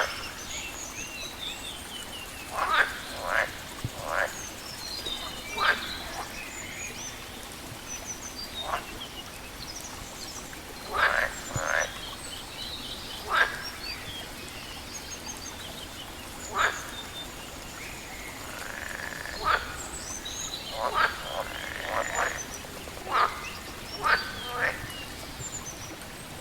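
Frogs croaking in short, loud calls at irregular intervals, some in quick pairs, over high chirping of small birds and a steady hiss of running water.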